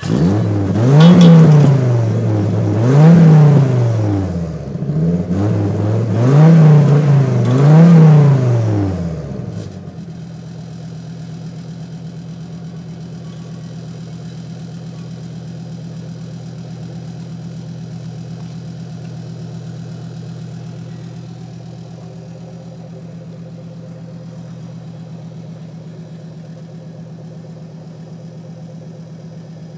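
Volvo 850's straight-five engine running through an OTS Special 80 mm aftermarket exhaust: revved four times in quick blips, each rising and falling, then settling about nine seconds in to a steady idle.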